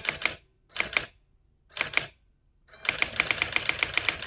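Brother AX-20 electronic daisy-wheel typewriter printing characters sent from a computer: a few short clusters of strikes with pauses between them, then from about three seconds in a fast, even run of strikes, about seven a second.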